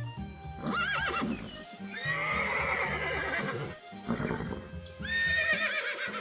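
Horse whinnying in three separate calls over background music.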